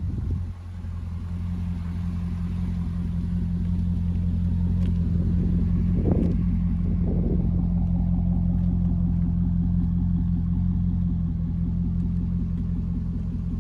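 2005 Chevrolet Corvette's 6.0-litre LS2 V8 idling steadily with a low, even rumble that gets a little louder over the first few seconds. Two brief, brighter sounds come about halfway through.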